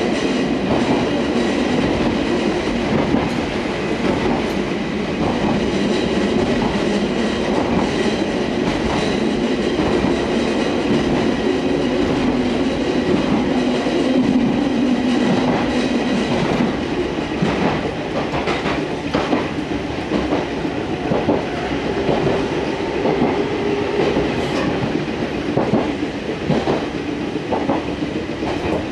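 Fukui Railway Fukubu Line electric train heard from inside the car, running at speed: a steady rumble of wheels and motors with a faint steady whine. Short clicks and knocks from the wheels over the track come more often in the second half.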